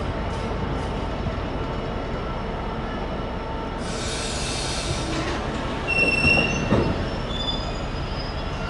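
Loaded cement tank wagons rolling past: a steady rumble of wheels on rail with brief high flange squeals, a hissing rush about four seconds in, and a couple of louder clunks from the wheels around six to seven seconds.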